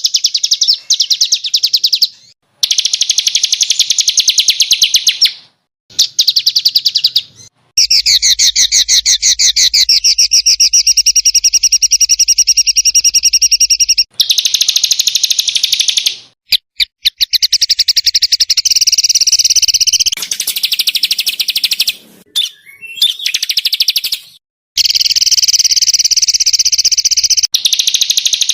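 Small songbirds singing fast, harsh trills, rapid repeated notes of the kind bird keepers call 'tembakan kasar', in bouts of a few seconds with short breaks. The notes are high and run together.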